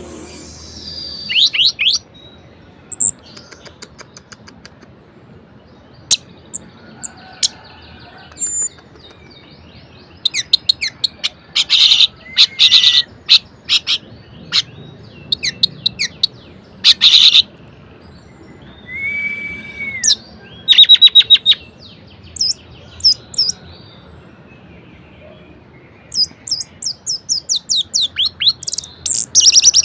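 Orange-headed thrush singing a varied song in spells: fast runs of short, high notes and slurred whistles, broken by quiet gaps, with a long quick run near the end.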